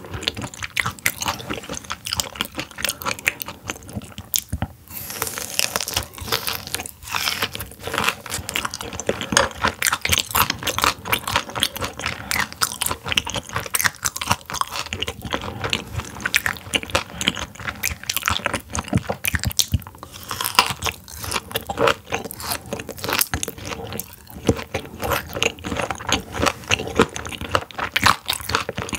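Close-miked crunching and chewing of frozen raw silver pomfret sashimi, a quick, continuous run of small crisp crunches.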